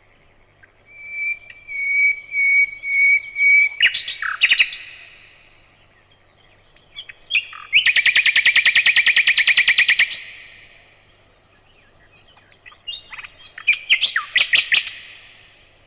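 Nightingale singing in separate phrases with pauses between them: drawn-out whistled notes ending in a quick flourish, then a loud, fast, rattling trill of evenly repeated notes, then a further phrase near the end.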